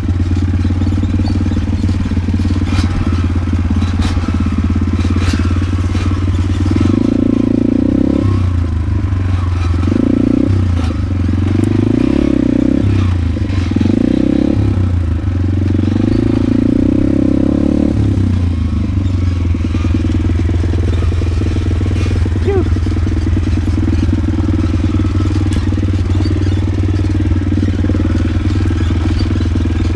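Yamaha DT125 two-stroke dirt bike engine running under way, its pitch rising and falling several times in the middle stretch as the throttle is worked, then settling back to a steady note.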